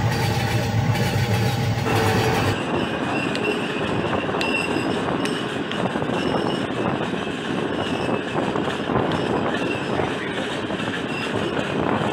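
Running noise of a passenger train heard from a coach, with wheels clattering over the track and brief high wheel squeals coming and going. The first couple of seconds hold a steady tonal sound that cuts off suddenly.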